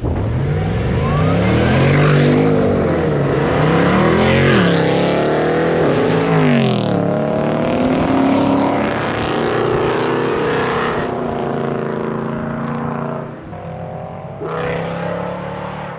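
Loud V8 car engine revving hard, its pitch climbing and falling several times as it accelerates and shifts, then holding a steadier pitch and easing off near the end.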